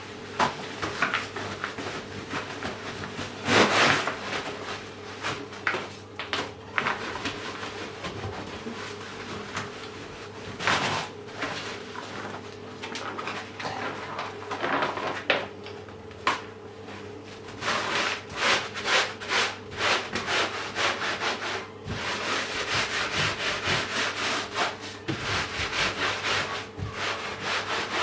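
Scrubbing and wiping a surface by hand with a cloth or sponge, in irregular strokes with a few knocks, then a steady back-and-forth scrub about two-thirds in. A faint steady hum runs underneath.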